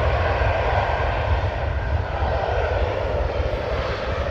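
Jet airliner departing from the runway, its engines giving a steady roar with a low rumble underneath.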